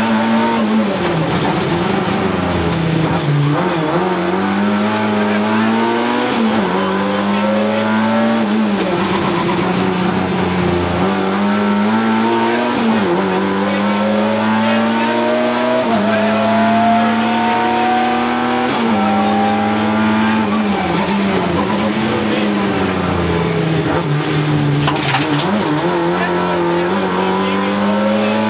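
Rally car engine at high revs heard from inside the cabin, its pitch climbing and then dropping sharply every few seconds through gear changes and lifts for corners. There is a brief sharp knock near the end.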